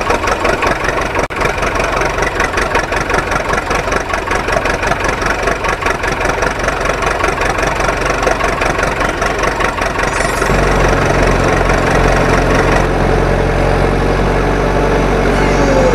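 Heavy machine engine running with a fast, even chug, as for a JCB loader or tractor. About ten and a half seconds in, a deeper steady drone joins it.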